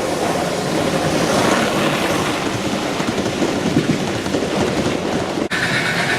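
G-scale model train running on its track, a steady rushing clatter. It breaks off abruptly near the end and gives way to a different sound with a steady hum.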